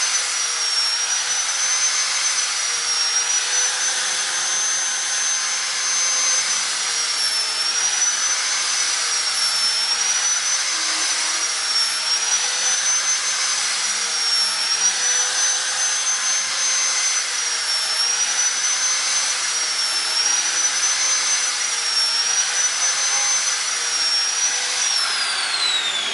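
Small high-speed electric power tool running steadily while shaving the sharp edges off square bird-cage bars to make them octagonal. Its high whine wavers slightly in pitch every couple of seconds as the cut loads it. Near the end it is switched off and the whine falls away.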